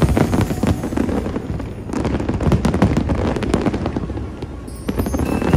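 Fireworks display: many shells bursting and crackling in quick succession over a low rumble, densest in the middle.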